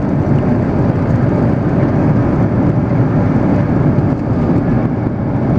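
Steady cabin noise inside an Airbus A330 airliner around landing: the engines and rushing air blend into one loud, even roar with no distinct tones.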